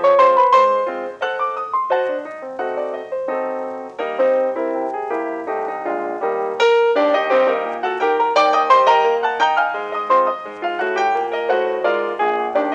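Solo piano music playing a brisk run of notes, in the manner of a silent-film accompaniment.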